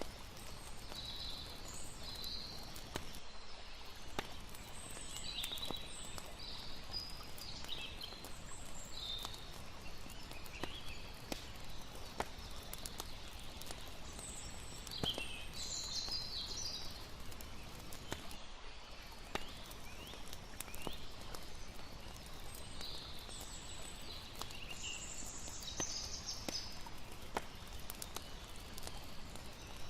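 Campfire crackling with irregular sharp pops over a steady haze of running water, with high chirping calls scattered throughout.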